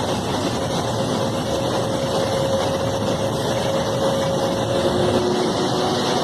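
WAP7 electric locomotive running, heard inside its cab: a steady rumble and rush of running noise with a faint steady whine that drops in pitch about five seconds in.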